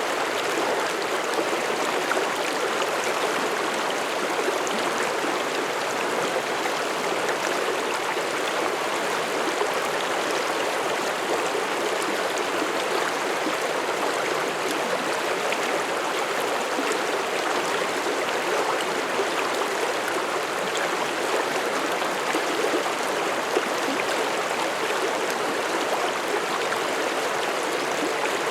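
Mountain stream running over rocks: a steady rush of flowing water with no change throughout.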